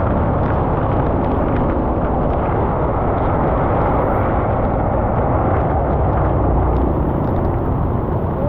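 Steady rushing noise of a motorbike being ridden in the rain, picked up by an action camera: wind and road noise with no clear engine note standing out.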